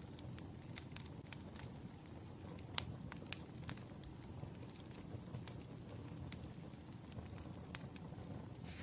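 Wood fire crackling: irregular sharp pops and snaps over a steady low rush of burning logs, the loudest pop a little under three seconds in.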